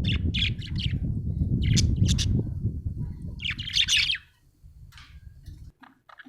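Budgerigar chirping in quick clusters of short high notes, with a louder burst about four seconds in and a few faint single chirps after. A loud low rumble runs underneath and stops about four seconds in.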